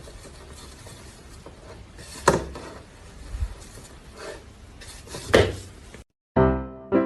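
A few sharp knocks or clinks over faint room noise, the loudest two about three seconds apart; piano music starts near the end.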